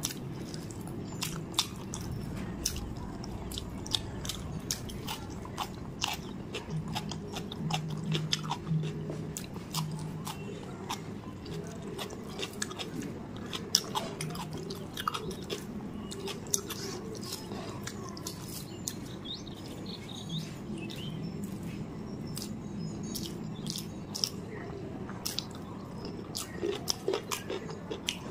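Close-up mouth sounds of chewing rice and chicken curry: many wet clicks and lip smacks, with the soft squish of fingers mixing rice on a metal plate.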